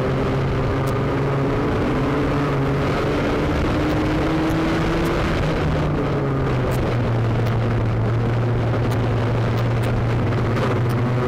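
Banger race car's engine running hard under load, heard from inside the cabin, its drone rising and falling a little in pitch. A few sharp clicks and rattles, mostly near the end.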